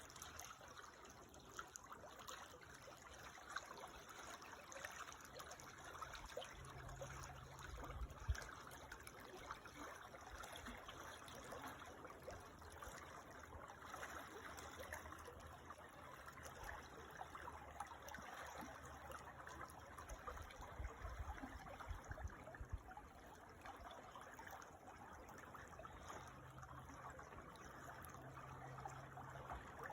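Creek water trickling and babbling steadily over stones. A faint low hum comes and goes underneath.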